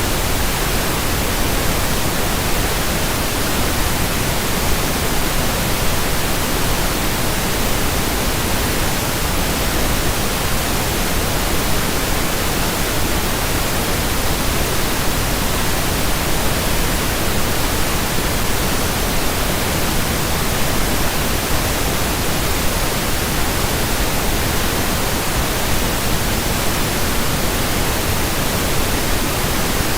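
Steady synthetic pink noise: an even hiss spread across all pitches, unchanging throughout.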